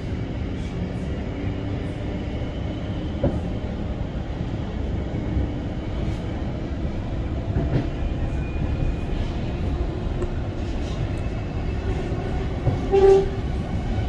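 Melbourne Metro suburban electric train running, heard from inside the carriage: a steady low rumble with faint clicks, and a brief higher tone about a second before the end.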